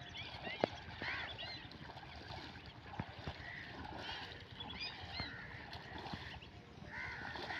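Waterfowl calling: many short, repeated calls that grow denser near the end. They sit over a low rumble, with a few sharp knocks.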